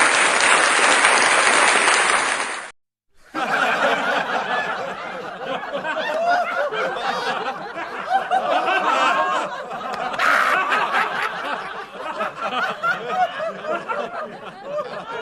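Stock audience-laughter sound effects. A dense wash of crowd noise cuts off suddenly just under three seconds in. After a brief silence, a crowd laughs with many voices overlapping.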